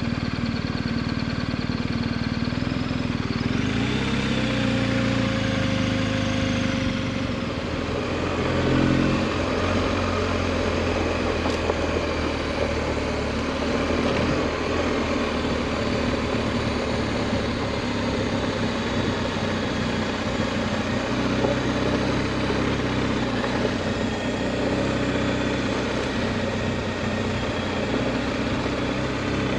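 Adventure motorcycle engine running steadily while riding a dirt road, its pitch changing a few times in the first ten seconds and again around twenty seconds in.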